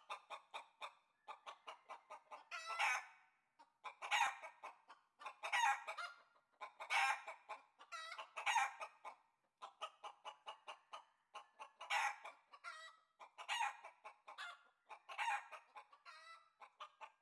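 A chicken cackling: fast runs of short clucks, each run rising into a louder, drawn-out call about every second and a half, stopping abruptly at the end.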